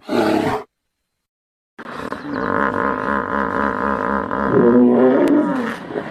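A large animal's calls: a short loud roar that breaks off about half a second in, a pause of about a second, then a long growling call with a fast low pulsing.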